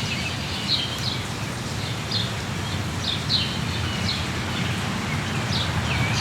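Rainforest ambience: steady rain hiss with a low rumble, while a bird repeats short, high, falling chirps every half second or so.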